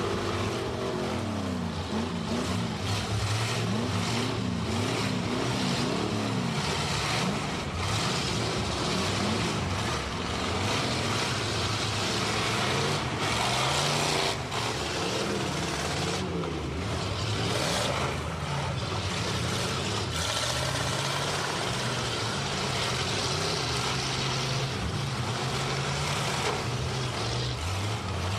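Demolition derby car engines revving up and down over a steady din, with several sharp knocks of impacts.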